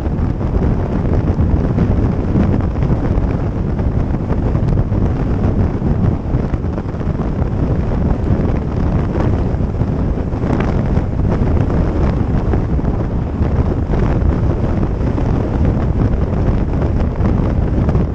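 Wind buffeting the microphone on a moving motorcycle: a loud, steady low rumble with the bike's running noise mixed in.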